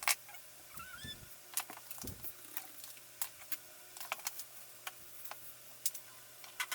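Irregular sharp clicks and light taps of metal and plastic computer parts and screws being handled while components are taken out of an old PC case. The loudest click comes right at the start.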